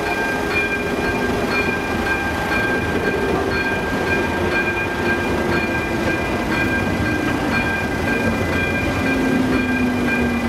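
Freight wagons, container flatcars and covered wagons, rolling slowly over a level crossing with a steady rumble and wheel clicks over the rail joints. The crossing's electronic warning bell rings throughout as a steady high-pitched tone. Faint sliding squeals from the wheels come through underneath.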